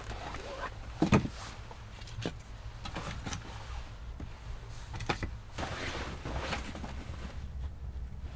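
A few short knocks, about 1, 2, 3 and 5 seconds in, and a scraping rustle around 6 seconds in, over a steady low rumble.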